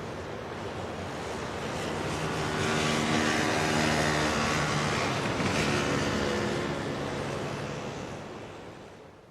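Yamaha DT1's two-stroke single-cylinder engine running as the dirt bike rides by: it grows louder over the first few seconds, holds a steady note, then fades away near the end, over a steady hiss.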